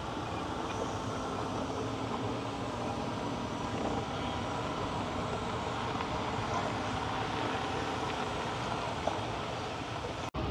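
Steady outdoor background noise with a low, even rumble of distant vehicles.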